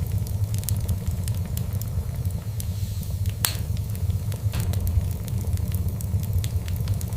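Fireplace fire crackling: many small sharp pops over a steady low rumble, with one louder pop about halfway through.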